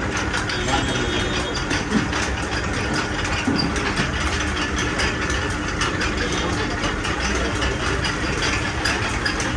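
A machine running steadily, with an engine-like hum throughout.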